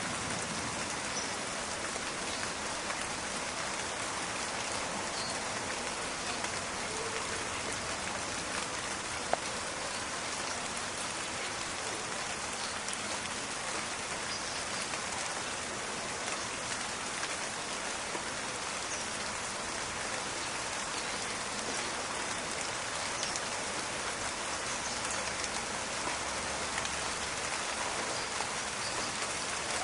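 Steady rain falling on leaves and ground, a dense hiss with scattered crackling drops, and one sharper tick about nine seconds in.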